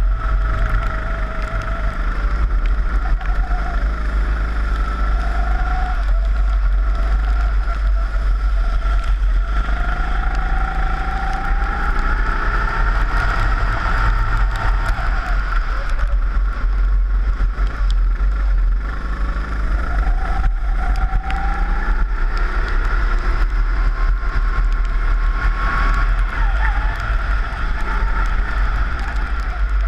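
Rental kart's four-stroke engine heard onboard, revving up and easing off again and again as it goes through the lap, over a constant low rumble of wind on the microphone.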